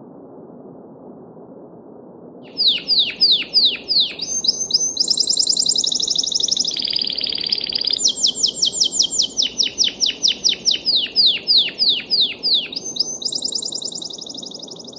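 A songbird singing one long, varied song, starting about two and a half seconds in: rapid runs of repeated downward-sweeping notes, fast trills and a short buzzy stretch in the middle. Under it runs the steady rush of a babbling stream.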